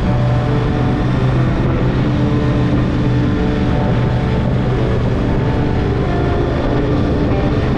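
Yamaha Drag Star XVS1100's V-twin engine running steadily while riding, with wind rush over the microphone.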